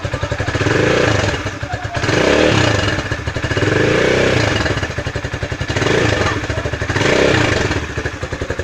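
Rusi Classic 250 motorcycle engine running through its modified stock muffler. It idles with an even pulse and is revved in four throttle blips, each rising and falling over about a second. The exhaust note sounds big and round rather than muffled.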